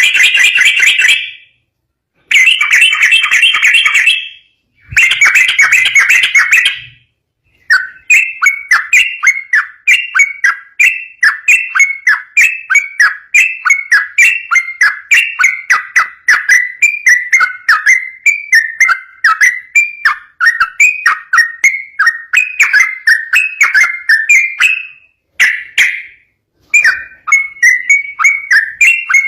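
Yellow-vented bulbul (trucukan) singing: three long, dense chattering phrases, then from about 8 s in a long run of quick, repeated warbling notes (the rapid 'ropel' song), broken briefly near the end.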